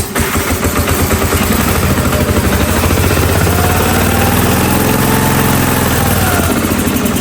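The 16-horsepower gasoline engine of a Hotsy pressure washer running steadily with rapid, even firing pulses. Its speed swells and settles once around the middle.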